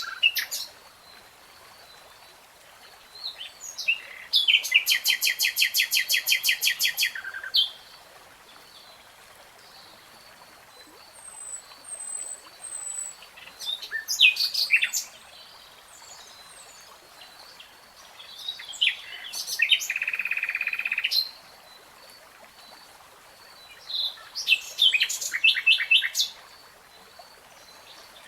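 A nightingale singing in separate phrases of fast repeated notes, a few seconds each, with pauses of several seconds between them. A fainter row of soft notes carries on underneath.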